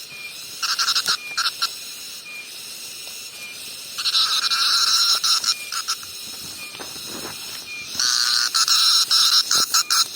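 Cicada calling: short stuttering calls about a second in, then two long calls, one about four seconds in and one about eight seconds in, over a faint steady high tone.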